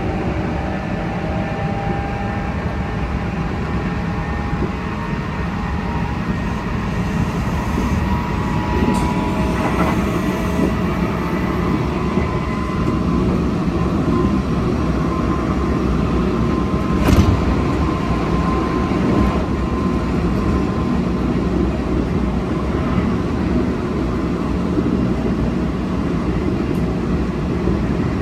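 Kintetsu Osaka Line electric train running, a steady rumble of wheels on rail with the thin whine of its Hitachi GTO VVVF inverter drive shifting in pitch. A single sharp knock sounds about two-thirds of the way through.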